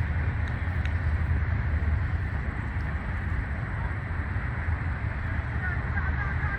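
Steady low rumble of wind buffeting the microphone, with faint distant shouts near the end.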